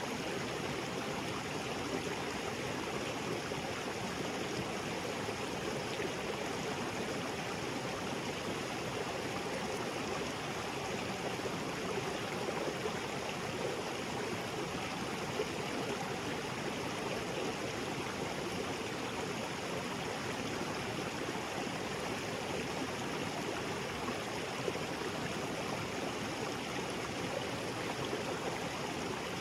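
Small waterfall cascading into a rocky creek: steady rushing and splashing water with some gurgling.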